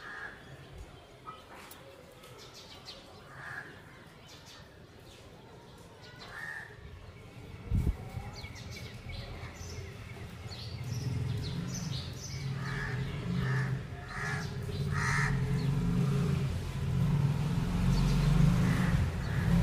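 Scattered short bird calls, several in quick succession a little after halfway. Beneath them a low rumble grows louder toward the end, and there is one thump near the middle.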